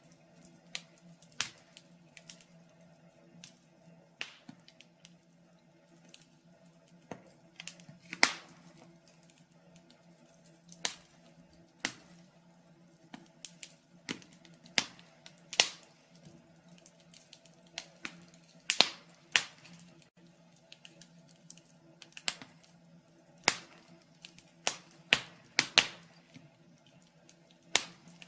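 Wood fire crackling in a fireplace, with irregular sharp pops, roughly one a second.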